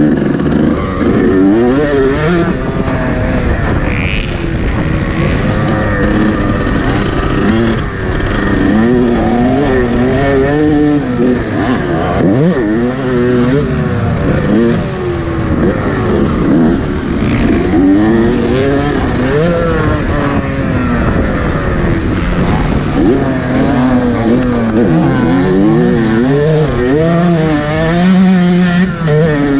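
Yamaha YZ125 two-stroke motocross bike's engine revving hard on the track, its pitch climbing and dropping again and again with throttle and gear changes.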